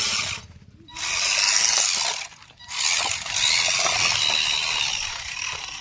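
A remote-control toy tractor's small electric motor and plastic gearbox whirring as it tries to drive out of a pit where it is stuck. It runs in three spells, cutting out twice for a moment.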